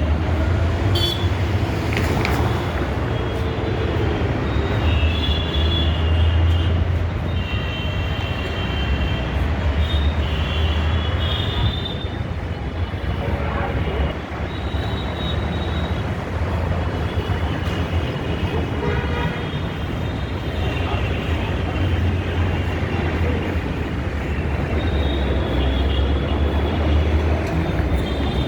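Steady low rumble of a moving vehicle, with short high-pitched squeaks coming and going over it.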